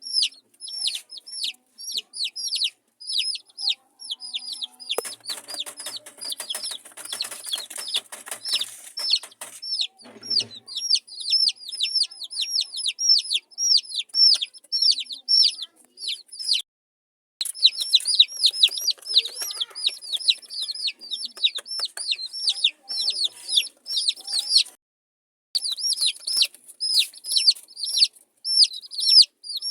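A brood of baby chicks peeping constantly: short, high, falling peeps, several a second. A burst of rustling runs under them for about five seconds, starting about five seconds in, and the sound breaks off completely twice for under a second.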